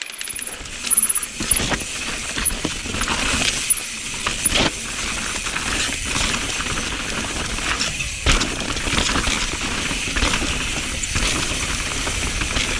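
Mountain bike being ridden fast on a trail: steady tyre and wind noise with frequent rattles, knocks and metallic clinks from the bike.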